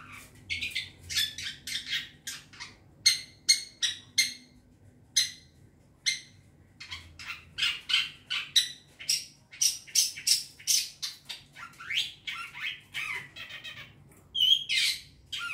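Young long-tailed shrike (cendet) calling: rapid runs of short, harsh chattering notes and squawks, with a few quick rising notes near the end.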